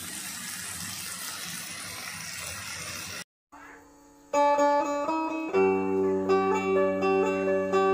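Water spinach sizzling as it stir-fries in a wok, a steady hiss that cuts off suddenly about three seconds in. After a short gap, louder plucked-string intro music with a picked melody begins.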